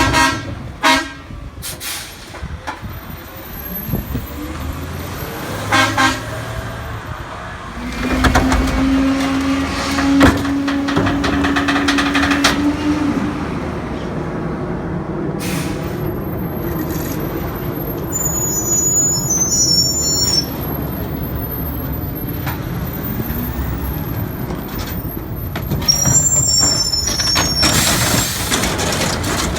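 Crane Carrier garbage truck with a Pak-Mor rear-loader body running while working a route: a steady diesel rumble with a few short sharp sounds and air-brake noises, and a held steady tone for about four seconds near the middle.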